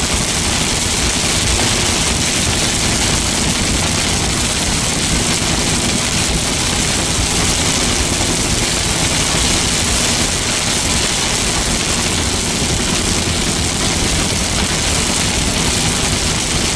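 Heavy rain hitting a car's windshield and roof at highway speed, heard from inside the cabin: a loud, steady hiss over the low drone of road and engine noise, with no wipers running.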